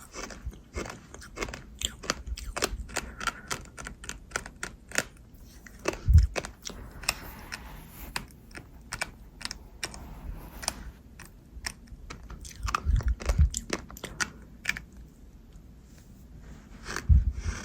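Crunchy, gritty chewing and biting: a dense run of quick crisp crackles, with a few dull low thumps, about six seconds in, around thirteen seconds, and near the end.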